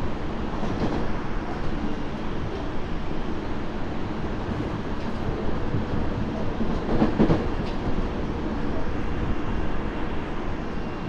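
Interior running noise of a Tobu 30000 series electric train's motor car at speed: a steady rumble of wheels on the track, with a louder clatter of wheel knocks about seven seconds in.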